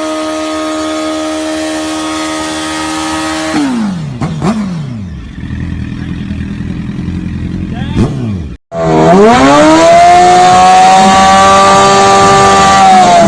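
Motorcycle engines held at high revs, as in a burnout. The first runs steady at high rpm, then drops away a few seconds in to a lower, rougher run. After an abrupt cut, another revs up quickly, holds high, and winds down near the end.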